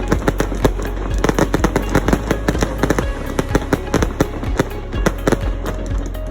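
Aerial fireworks bursting in quick, irregular succession, many sharp bangs a second over a continuous low rumble, with music playing underneath.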